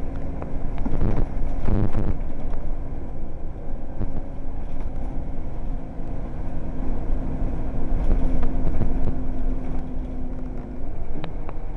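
Scania L94UB bus's diesel engine running under way, with a steady engine tone and road rumble. Near the end the engine note rises.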